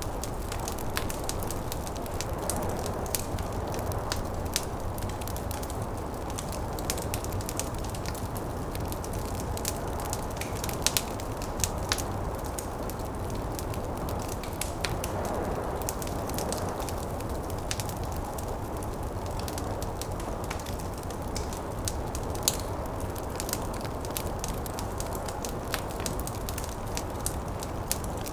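Wood fire crackling, with frequent irregular sharp pops and snaps, a few louder ones, over a steady low rush of snowstorm wind.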